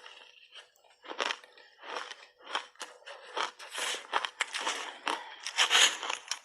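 Crunchy shaved ice being bitten and chewed close to the microphone: a run of uneven crunches that comes thicker and louder in the second half.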